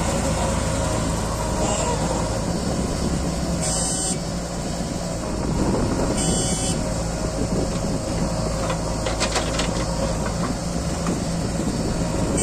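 Diesel engine of a JCB 3DX backhoe loader running steadily while it works. Two short high-pitched sounds come about 4 and 6 seconds in.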